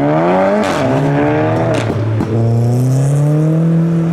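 Car engine accelerating hard through the gears: its pitch climbs, drops at a gear change about half a second in and again about two seconds in, then climbs steadily. A few short sharp cracks come around the first gear change.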